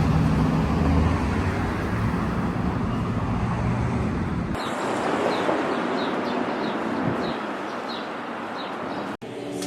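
City traffic noise with a low engine hum from a passing or idling vehicle. About halfway through it cuts to outdoor background noise with a small bird chirping repeatedly, about two short descending chirps a second.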